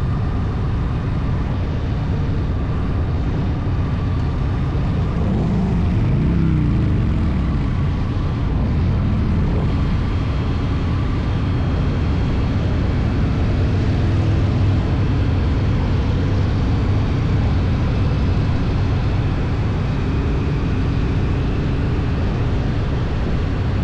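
Motorcycle engine running steadily while cruising, a loud low rumble mixed with wind and road noise. About six seconds in the pitch rises and falls once, as an engine revs up and eases off.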